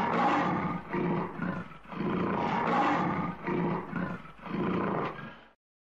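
Lion roaring, a string of loud roars one after another, ending abruptly about half a second before the end.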